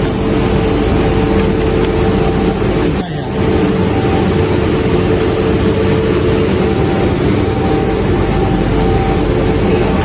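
Sandblasting equipment running: a loud, steady hiss with a constant hum under it, dropping out briefly about three seconds in.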